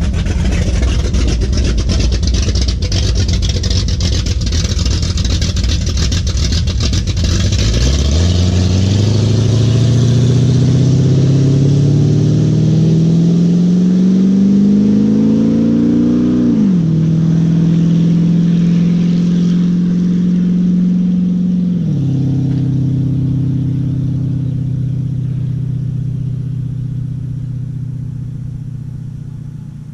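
1976 Ford F150's 360 FE V8 with glasspack mufflers: a rough, loud rumble at first, then the engine note climbs steadily under acceleration. It drops suddenly twice at the upshifts, about halfway and about two-thirds of the way through, and the sound fades over the last few seconds.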